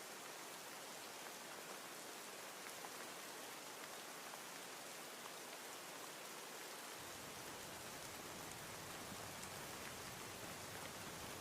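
Steady rain ambience: rain falling on a surface, with faint scattered drop ticks. About seven seconds in, a low rumble comes in beneath it.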